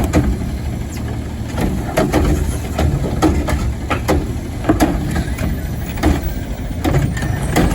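Front-load garbage truck's diesel engine idling with a steady low rumble, with short knocks and clatter coming over it every half second or so.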